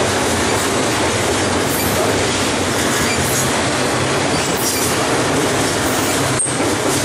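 BNSF double-stack container train's cars rolling past close by: a steady loud rumble and clatter of steel wheels on the rails. Faint high wheel squeals come through around the middle and near the end.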